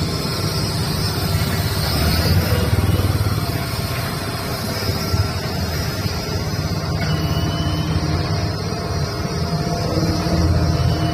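Dynapac CA510 road roller's diesel engine running steadily, swelling slightly louder now and then.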